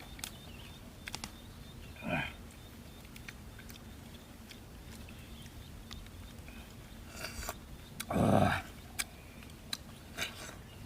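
A person eating cooked river shellfish: short loud slurps, one about 2 seconds in and a longer one about 8 seconds in, with small clicks in between.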